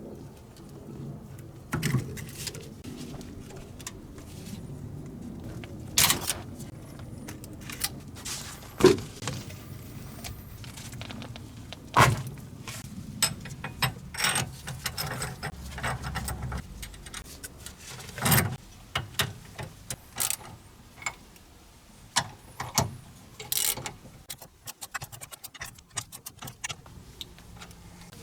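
Hand tools working on metal suspension parts while a car's rear axle tie rod is taken apart: scattered metallic clinks and rattles, with a few sharp single knocks spread through.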